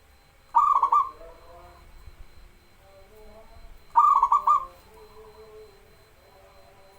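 Zebra dove (perkutut) singing: two loud cooing phrases of quick stuttering notes, about three and a half seconds apart, with fainter lower coos trailing between them.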